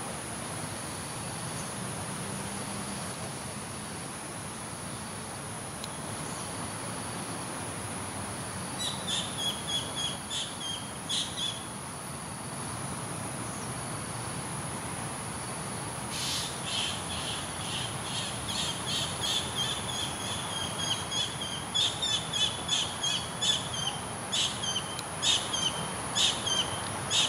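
A wild bird calling in quick, sharp chirps: a short bout about a third of the way in, then a longer run of chirps through the second half, several a second and getting louder toward the end. A steady, high-pitched insect drone runs underneath.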